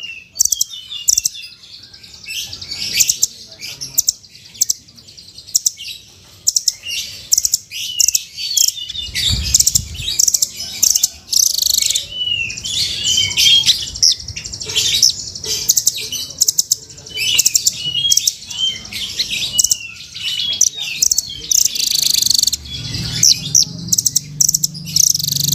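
Rambatan (nuthatch) calling: a rapid, nearly continuous run of high-pitched chirps, ticks and short curling notes. Low background noise comes up near the end.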